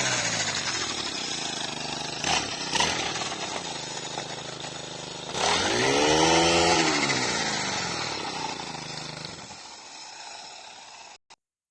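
An engine running close by. About halfway through its pitch and loudness rise and then fall back, as when revving or passing, and the sound cuts off abruptly near the end.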